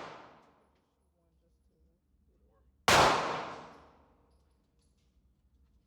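A single gunshot about three seconds in, a sharp crack with an echoing tail that dies away over about a second; at the start the echo of an earlier shot fades out.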